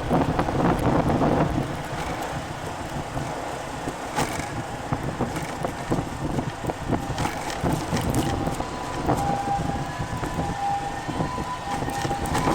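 Road traffic passing through a busy city intersection, with wind buffeting the microphone. A faint broken high tone joins in about nine seconds in.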